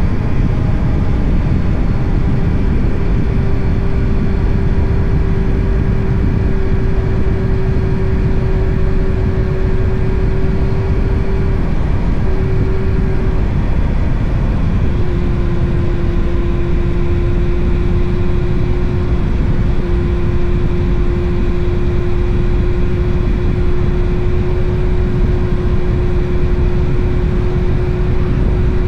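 Motorcycle engine running at a steady cruising speed under heavy wind rumble on the microphone. The engine note breaks off briefly about halfway through and comes back a little lower.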